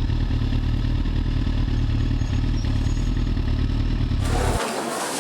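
Motorcycle engine running steadily, then cut off abruptly about four seconds in, giving way to a hissy background.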